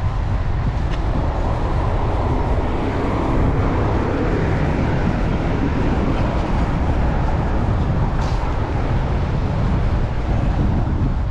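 Heavy wind buffeting the microphone of a cyclist's chest-mounted camera, a steady loud rumble, mixed with city road traffic noise.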